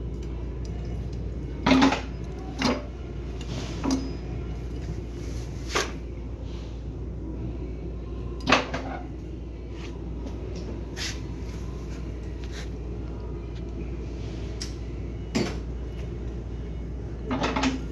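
Scattered sharp knocks and clinks of hard parts being handled and set down during a repair, about seven in all, over a steady low hum.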